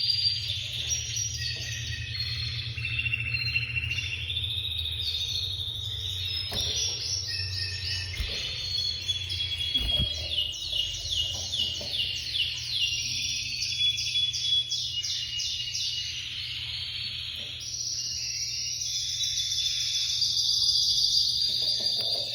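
Spanish canary singing a long, varied song of fast trills and rapidly repeated high notes, with a softer stretch about two-thirds of the way through.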